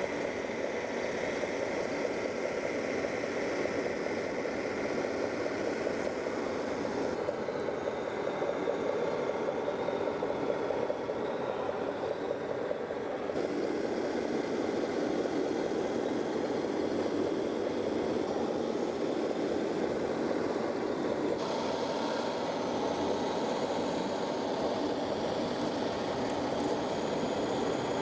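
Small electric motor and plastic gearbox of a remote-control toy tractor running with a steady whir. The sound changes abruptly three times, as the footage cuts between clips.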